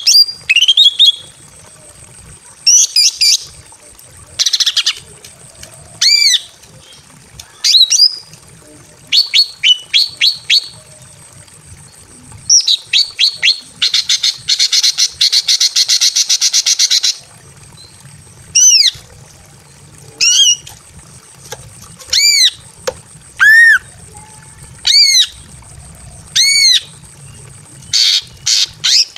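Female green leafbird (cucak ijo) calling in breeding condition, a call meant to summon a male. It gives a run of short, sharp calls, each rising and falling in pitch, with a harsh buzzy rattle of about three seconds in the middle.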